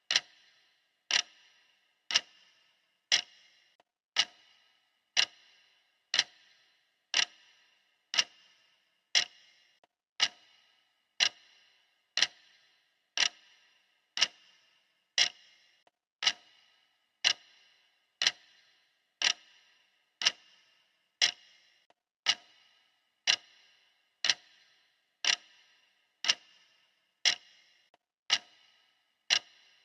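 Clock ticking steadily, sharp, even ticks about once a second.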